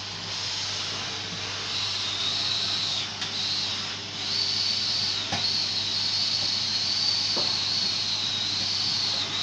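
Vacuum cleaner running steadily, a hissing rush of air with a high motor whine that wavers slightly in pitch, and a few light knocks as it is pushed around.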